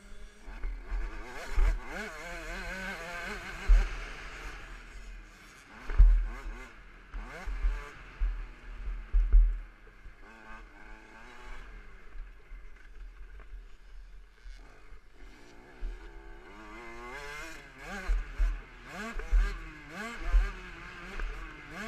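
KTM 65 SX's 65 cc two-stroke single-cylinder engine being ridden hard, revving up and falling back again and again, heard close up from an onboard camera. Heavy low thuds on the microphone come and go, loudest about a third of the way in and again near the end.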